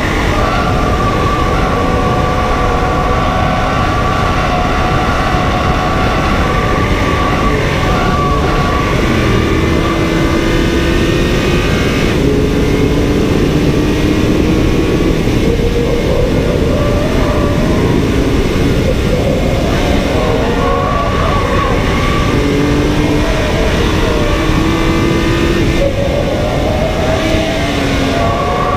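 BMW M car's engine heard onboard, accelerating and shifting up through the gears over and over, with its pitch rising and then dropping at each change, under constant road and wind noise.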